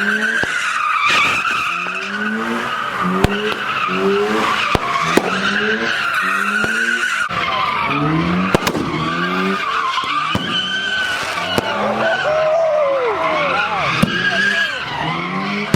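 A car doing a burnout or donuts: tires squealing continuously while the engine revs up again and again in short rising bursts as the wheels spin. A few sharp cracks stand out.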